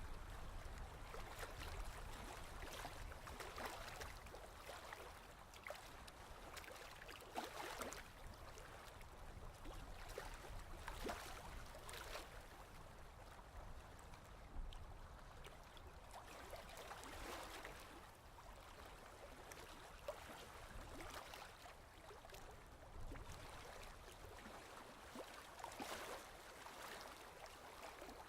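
Ocean waves washing in softly, the water noise swelling and falling back every four to five seconds.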